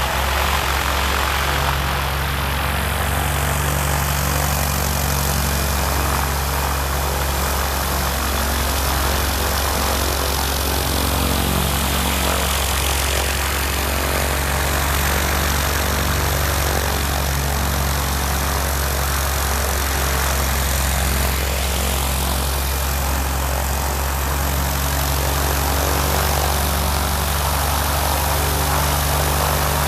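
Van's RV-10 light aircraft's piston engine idling steadily with its propeller turning: a low, even drone, with a hiss above it that slowly shifts in pitch.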